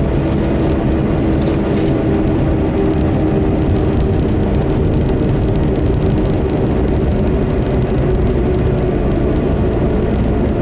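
Small car cruising at a steady speed, heard from inside the cabin: constant engine drone and road noise with a steady hum.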